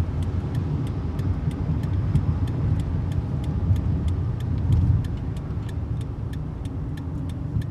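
1999 Dodge Intrepid's 2.7-litre V6 and road noise heard from inside the cabin while driving: a steady low drone that eases a little about five seconds in, with faint light ticks a few times a second.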